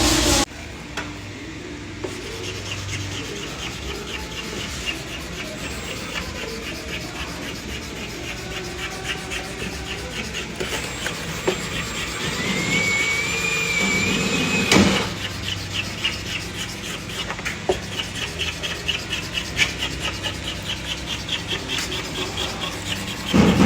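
Abrasive rubbing quickly and rhythmically over a car body panel, as when blocking a panel or working it with a body file over a guide coat, with a short rising squeal about halfway through and a single knock soon after.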